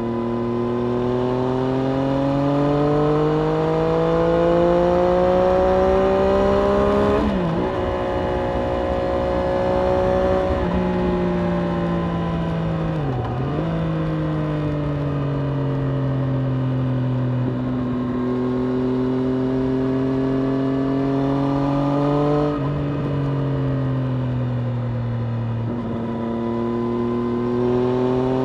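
Triumph Street Triple RS 765's three-cylinder engine pulling hard, its pitch climbing as the bike accelerates, with a sharp drop at a gear change about seven seconds in. The revs then fall and climb again through the rest of the lap, with quick dips and jumps at further gear changes.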